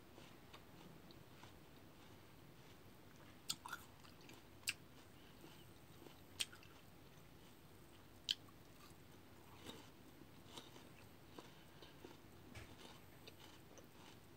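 Close-up chewing of crisp raw fruit slices, soft and quiet, with a few sharp crunching bites between about three and eight seconds in.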